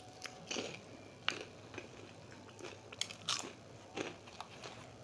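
A person chewing and crunching a crisp fried samosa close to the microphone, with irregular crackly crunches. The loudest come about a second in, around three seconds in and at four seconds.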